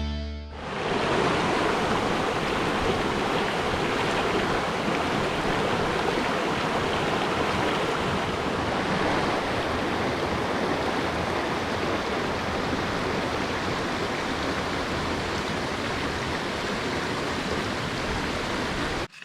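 Steady rushing of water, an even hiss with no distinct drops or clicks, fading in about half a second in and cutting off abruptly near the end.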